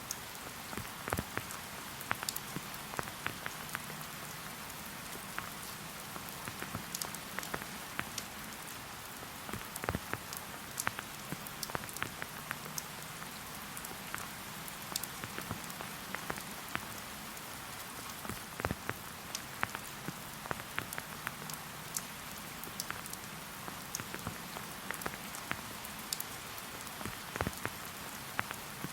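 Steady rain falling, a continuous even hiss with frequent sharp ticks of individual drops striking at irregular intervals.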